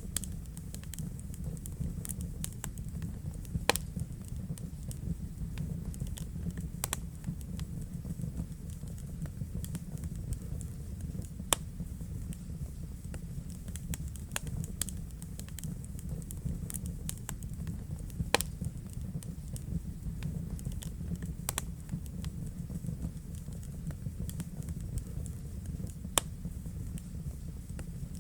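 Wood fire burning in a fireplace: a steady low rumble with frequent sharp crackles, and a few louder pops about every seven seconds.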